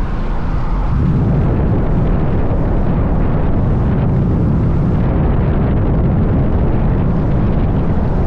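Loud, steady low rumble of wind and road noise from a moving vehicle, getting stronger about a second in.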